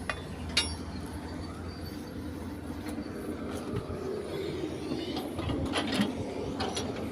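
A steady low machine hum, with a few sharp clicks and knocks about half a second in and a cluster more near the end.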